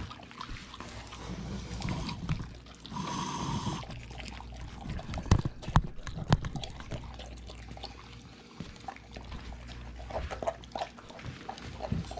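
Dogs eating steamed salmon heads and tails: wet chewing and smacking with scattered sharp crunches and clicks. A short high tone sounds about three seconds in.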